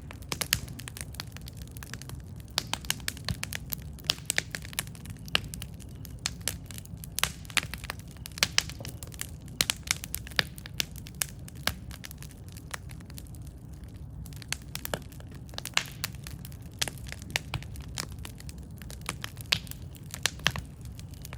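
Campfire burning, with many sharp irregular crackles and pops over a steady low rumble of the flames.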